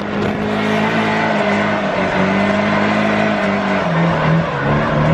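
Nissan S13 drift car's turbocharged SR20DET engine running hard at high revs. Its pitch dips briefly about two seconds in and drops lower for a moment near the end before climbing again.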